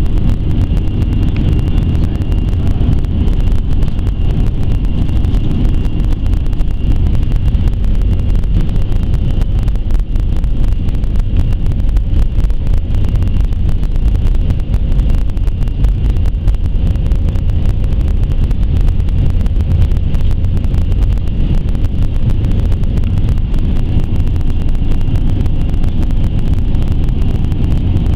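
Airbus A320-212's CFM56 engines running at high power, heard from inside the cabin as a loud, steady rumble with a thin steady high whine.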